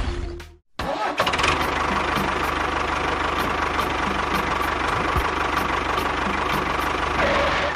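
An engine or small motor running steadily with a fine, even low rhythm. It starts abruptly about a second in and fades out near the end.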